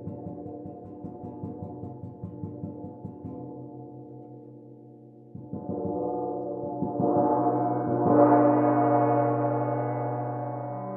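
A gong played with rapid soft strokes, its many overtones ringing together; it eases off, then a new roll starts about five seconds in and swells to its loudest around eight seconds before slowly dying away.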